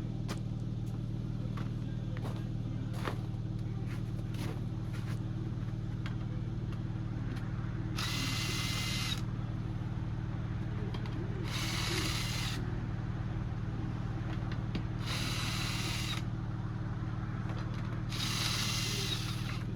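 Milwaukee impact wrench run in four short bursts of about a second each, a few seconds apart, spinning off a truck wheel's pre-loosened lug nuts. Light knocks come first, and a steady low hum runs underneath.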